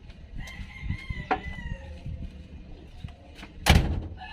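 A single loud bang or slam near the end, with lighter knocks and clicks before it. A drawn-out high call with several tones sounds early on.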